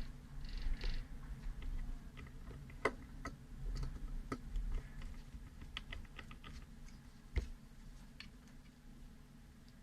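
Scattered light clicks and ticks from handling an Ontario RAT1 folding knife during reassembly, with a few sharper clicks about three, four and seven and a half seconds in and a soft rustle at the start.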